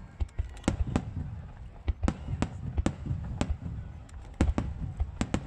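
Aerial fireworks shells bursting: a rapid, irregular series of sharp bangs, about a dozen in five seconds, over a continuous low rumble of booms.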